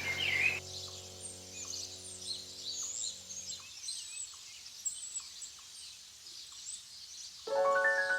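Many small birds chirping and twittering in a steady high chatter. A held music chord fades away over the first few seconds, and gentle mallet-percussion music comes back in near the end.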